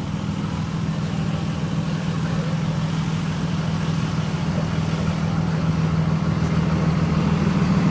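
A motor vehicle engine idling: a steady low hum that grows slowly louder.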